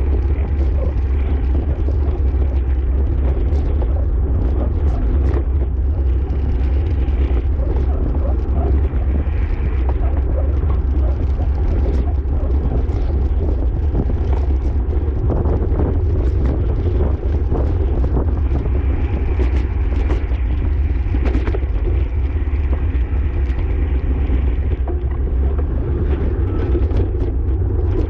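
Steady, heavy wind rumble buffeting the microphone of a camera riding along on a bicycle at race speed.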